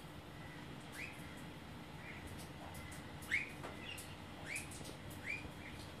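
A small bird chirping: short, clear calls that sweep upward, about one a second, with one louder than the rest a little past the middle.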